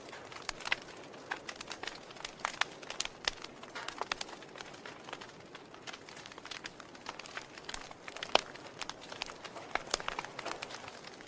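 Wood fire crackling in a fireplace: a steady low hiss with irregular sharp pops and snaps, the loudest one about eight seconds in.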